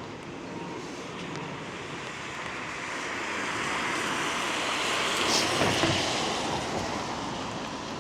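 A car passing on a wet road: the hiss of tyres on water swells to a peak about five to six seconds in, then fades.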